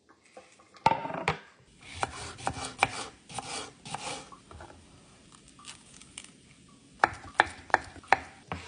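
Knife chopping food on a cutting board: a couple of sharp strokes about a second in, a busier run of cutting, then four quick chops near the end.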